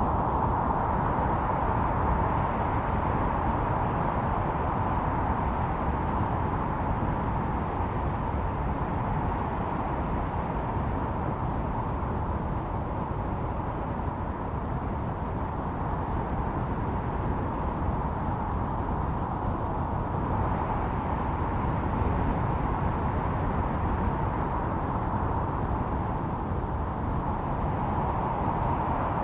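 Snowstorm wind blowing steadily with a low rumble and a howling note that swells and fades. The howl is strongest at the start, again about two-thirds of the way in, and near the end.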